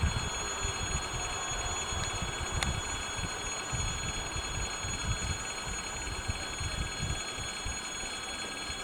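Electric warning bell ringing steadily over an uneven low rumble, then cutting off suddenly near the end.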